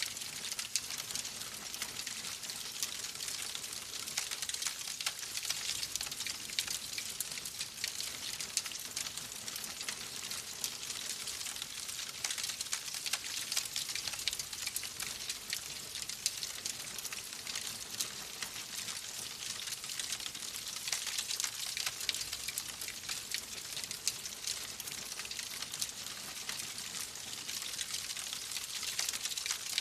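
Wood fire crackling: a steady hiss scattered with many small, quick pops.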